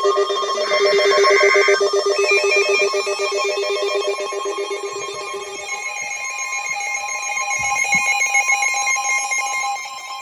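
Electronic alert tones opening a weather radio severe thunderstorm warning: a loud, rapidly repeating ringing trill, with a short higher screech about a second in. The lower part of the trill drops out around the middle, leaving higher steady tones.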